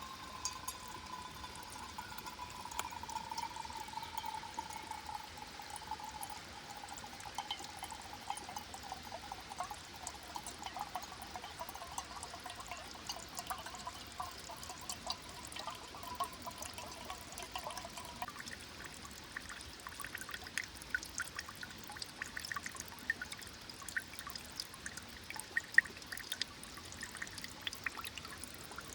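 Water poured in a thin stream, with a tone that slowly falls in pitch and stops about 18 seconds in, followed by light drips and small clicks.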